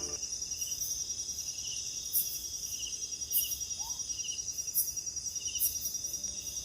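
Night insect chorus: a steady high cricket trill, with another insect's chirp repeating about every 0.7 s. A faint short rising call sounds once about four seconds in.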